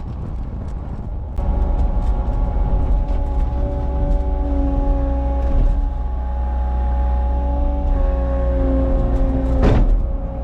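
Cat 279 skid steer's diesel engine running under load, with a steady whine over it. It gets louder about a second and a half in, and there is a brief louder rush near the end.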